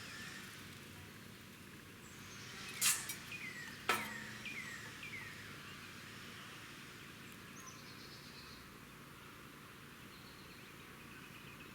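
Two sharp knocks about a second apart, followed by a short run of quick descending bird chirps, over steady outdoor background noise.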